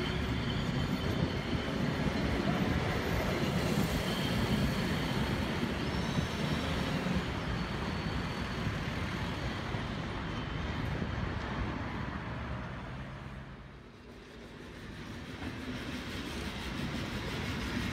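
Train passing through the station, a continuous loud running noise that fades away about fourteen seconds in, then builds again toward the end.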